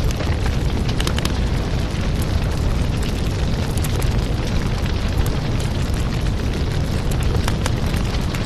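Fire burning in a fireplace: a steady low rumble of flames with irregular sharp crackles and pops scattered through it.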